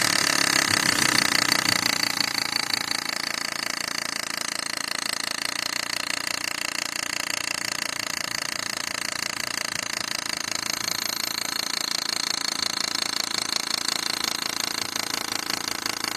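Volvo engine running with a steady, rapid rattling from the belt drive, which the owner takes for a bad belt pulley, possibly the camshaft pulley. It is a little louder for the first couple of seconds, then holds steady.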